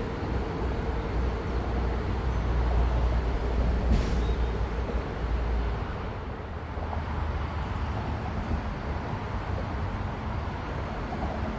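Steady vehicle noise, a low rumble with a hiss above it; the rumble eases about six seconds in.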